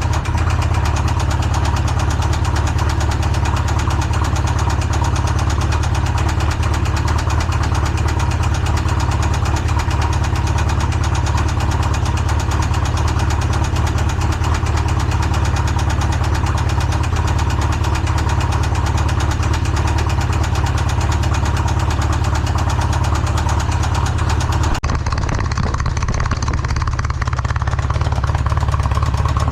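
Polaris RZR engine running steadily at idle with a rod knock; a rod bearing has seized to the crank after oil pressure was lost, and the engine is running on Lucas oil stabilizer. Its sound turns abruptly duller about 25 seconds in.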